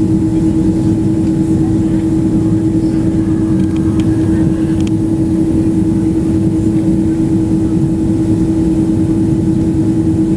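Airliner cabin noise: a steady engine drone with a constant hum running through it, heard from inside the cabin. A few faint ticks come about four to five seconds in.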